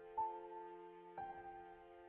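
Slow, gentle piano music: a new note struck about every second and left to ring and fade.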